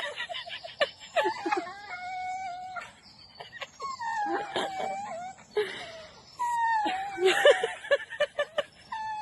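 A dog whining in long, drawn-out calls, three of them about a second or more each, each starting high and dropping slightly. Short clicks and noises come between the calls.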